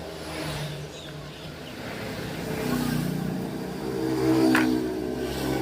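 A motor vehicle engine running and revving, its pitch and loudness rising and falling a couple of times, with a short sharp click about four seconds in.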